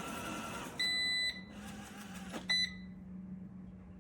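Two electronic beeps at one steady pitch: a half-second beep, then a short one about a second and a half later. A steady background hiss stops right after the second beep, leaving a low hum.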